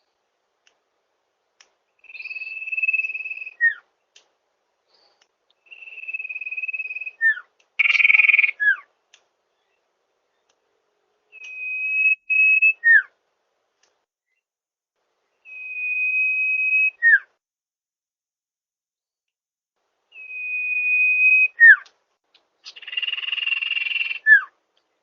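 Common iora (cipoh) song played as a lure call. Each phrase is a long, steady high whistle ending in a short falling note, and the phrase repeats six times about every four seconds. Twice, about a third of the way in and near the end, a louder, rougher burst sounds over the whistle.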